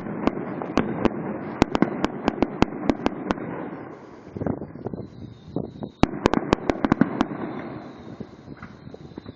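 Fireworks going off: rapid sharp cracks and bangs, several a second, over a dense crackle. It eases off about four seconds in, then comes a fresh run of cracks, with a faint high whistle beneath it.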